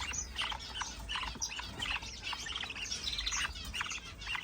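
Caged budgerigars chirping and chattering, many short overlapping chirps in quick succession.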